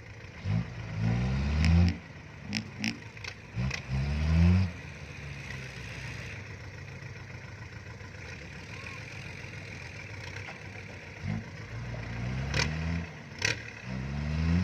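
Farm tractor engine revving hard in several short bursts over a steady running background, with a few sharp clanks between the revs.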